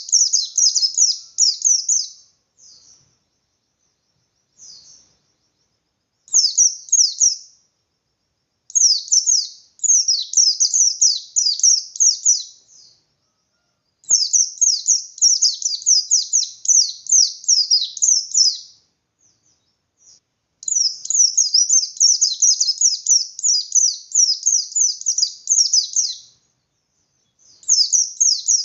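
Pleci (white-eye, 'bustomi' type) singing its 'ngalas' song: fast, high chattering runs of notes in phrases of one to five seconds, broken by short pauses and a few brief single calls.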